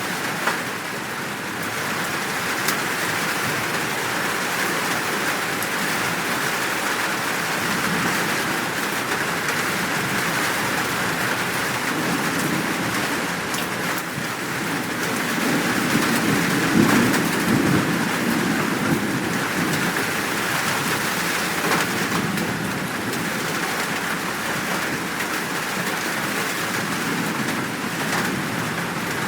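Steady downpour of rain, with a low rumble of thunder rolling in through the middle and fading again.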